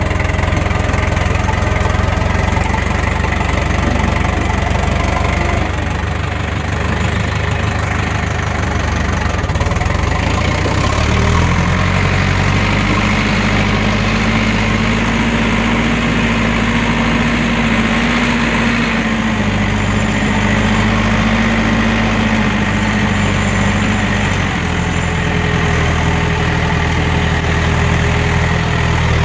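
Farm tractor engine running at a low, steady speed; about eleven seconds in the engine speeds up to a higher steady pitch, then settles back down about thirteen seconds later.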